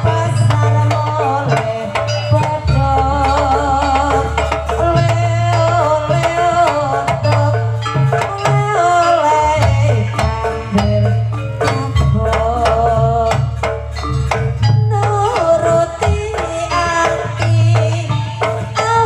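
Live jaranan kuda lumping accompaniment: a Javanese folk ensemble with hand drums keeping a steady, repeating beat under a wavering melody line.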